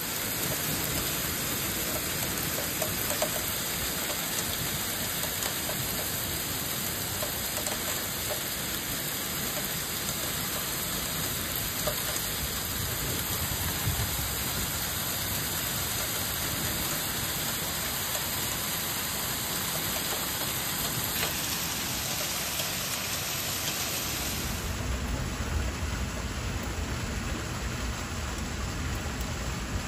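Heavy downpour of a hailstorm, pelting down steadily. About 24 seconds in, the sound changes to a fuller, deeper rush.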